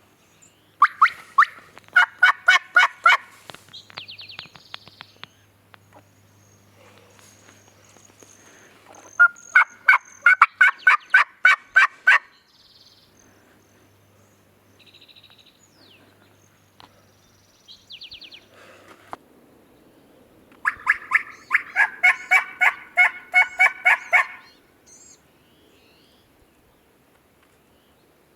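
Turkey calling: three loud runs of rapid, sharp yelps, each lasting two to four seconds, about a second in, around ten seconds in, and again near the end. A few short, softer calls fall between the runs.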